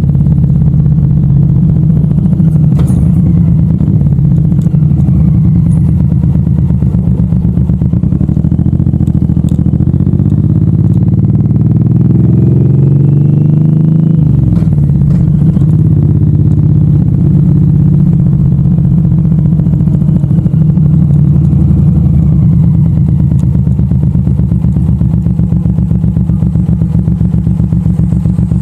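Suzuki M109R V-twin motorcycle engine running on the move. About halfway through its pitch climbs for a few seconds, then drops suddenly and settles back to a steady run.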